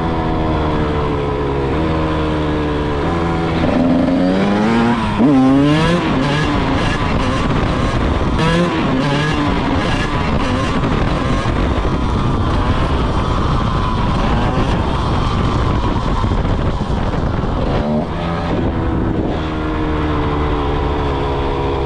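Honda CR125's single-cylinder two-stroke engine being ridden under throttle, its pitch repeatedly climbing and dropping as the rider revs and shifts.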